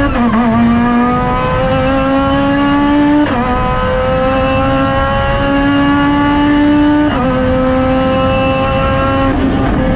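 Honda-engined Lotus Exige at full throttle, heard from inside the cabin: the boosted engine revs up to about 8,000 rpm and drops in pitch at each of three quick upshifts, climbing again after each one.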